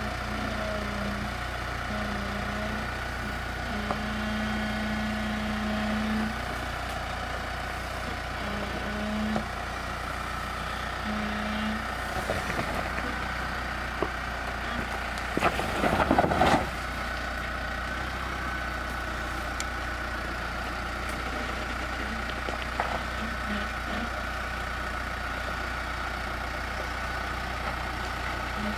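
Jeep Wrangler engine running low and steady as the vehicle crawls slowly over a rocky off-road track, with a short louder burst of noise about halfway through.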